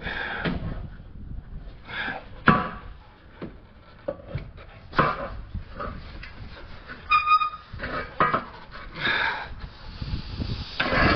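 Irregular clunks, knocks and rattles of hands and tools working on a car's exhaust, with a brief high ringing tone about seven seconds in.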